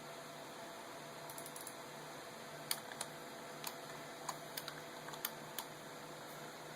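Computer keyboard being typed on: about ten irregular key clicks, mostly in the middle, over a steady low hum.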